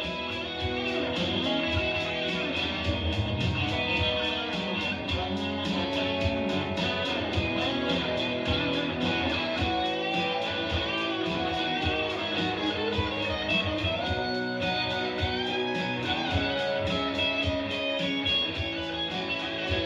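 Live rock band playing an instrumental passage: an electric guitar solo with bending, gliding notes over a steady drum beat, recorded from the room.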